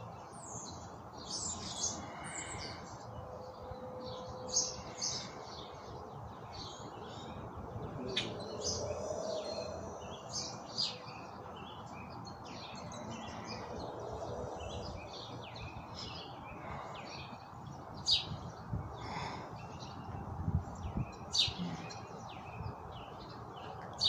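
Birds chirping, many short high calls scattered throughout, with a few sharper, louder ones in the second half, over a steady low background noise.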